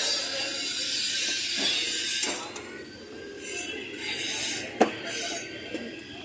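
Workshop tool noise: a long high-pitched hiss, then three shorter hisses, with a sharp click between the last two.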